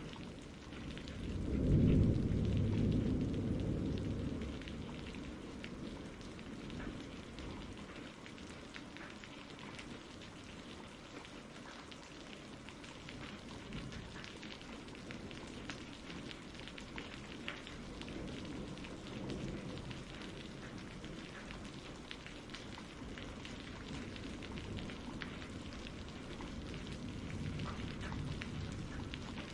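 Steady rain pattering, with a roll of thunder about two seconds in that swells and fades over a few seconds. Fainter low rumbles come later, around the middle and near the end.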